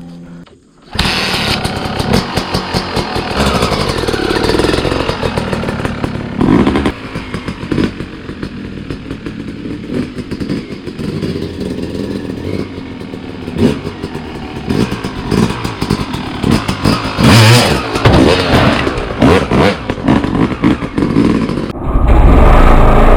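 Dirt bike engine running hard, its revs rising and falling as the bike rides, mixed with clattering and thuds. It comes in about a second in after a brief drop, and a deep low rumble takes over near the end.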